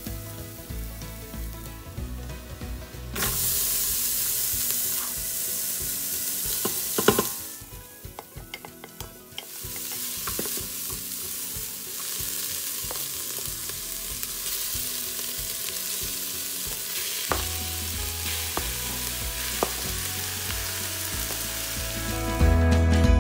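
Chopped garlic and onion sizzling in hot oil in the stainless steel inner pot of an Instant Pot, with a utensil stirring and clicking against the pot now and then. The sizzle starts about three seconds in, drops away briefly around eight seconds, then comes back and holds steady.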